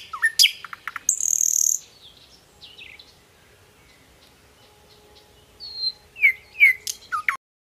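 Several birds calling: quick chirps and down-slurred whistles, a harsh buzzy call about a second in, and louder down-slurred calls in pairs near the end, until the sound cuts off suddenly.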